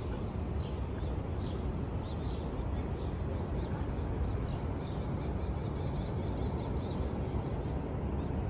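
Small birds chirping in short runs of quick high chirps over a steady low rumble of city traffic.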